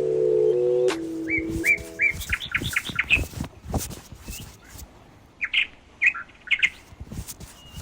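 A small bird chirping in quick runs of short calls, one run from about one to three seconds in and another near the end. Held music notes fade out in the first second, and soft taps are scattered throughout.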